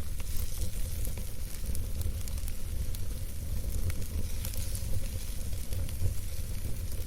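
Wood campfire burning with soft, irregular crackles and small pops over a steady low rumble.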